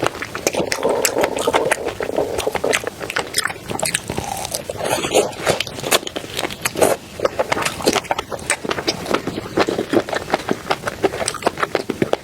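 A person chewing and biting food close to the microphone, a dense, irregular run of wet clicks and crunches.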